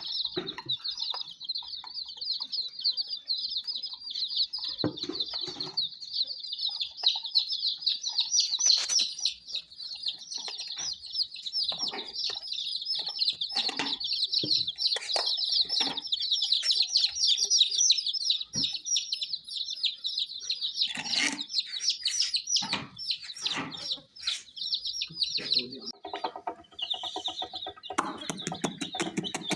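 A crowd of baby chicks peeping continuously, high and dense, with scattered short taps as they peck at wheat grains. Near the end the peeping thins and a rapid, even ticking starts.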